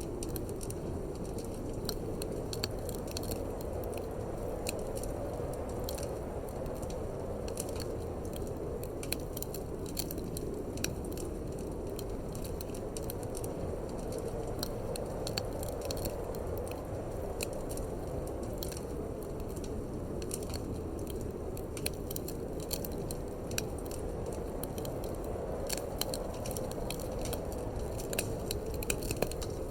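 Wood fire in a fireplace crackling, with frequent irregular sharp pops and snaps over a steady low rush of wind.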